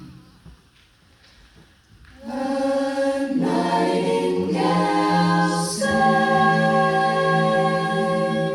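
Vocal ensemble singing in close harmony. A chord dies away at the start, and after a pause of about two seconds the voices come back in with sustained chords. They move to a new chord about halfway through and hold it until a clean cutoff.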